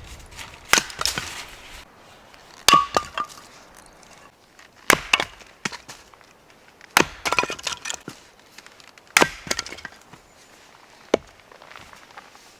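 Firewood being split or broken for a campfire: about half a dozen sharp wooden cracks with splintering, one every two seconds or so. A short ringing tone follows one of the early strikes.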